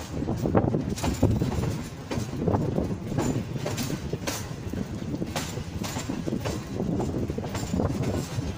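Tezgam express passenger coach rolling along the track, wheels clattering over the rails with irregular clanks, heard from the open coach door.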